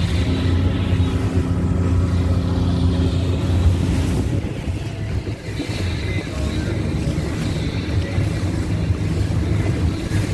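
A boat's engine running steadily under way, a low hum, with wind buffeting the microphone and water rushing past the hull.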